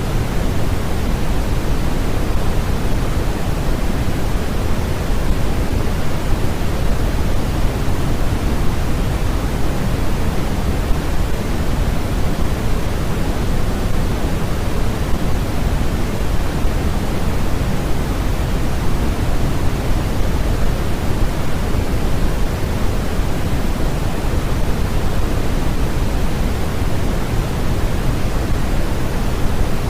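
Steady generated noise played as a sleep and study noise track, even and unchanging, with more weight in the low rumble than in the high hiss.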